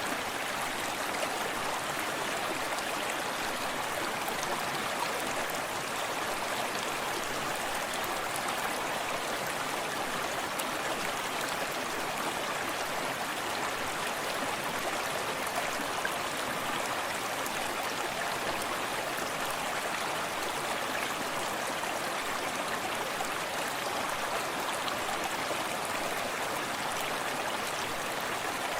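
Small forest stream running steadily over rocks, a continuous even rush of water with soft splashing and no breaks.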